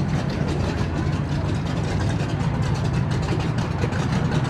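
An engine idling steadily, with a rapid, even pulse.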